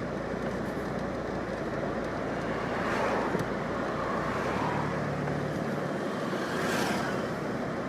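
Street traffic noise, steady, with a vehicle passing by about three seconds in and another near the end.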